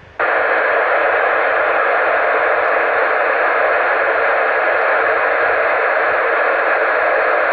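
Steady FM radio hiss from a two-metre amateur transceiver's speaker, with the squelch open and no voice on the repeater channel between overs. It comes on just after the start and stays even.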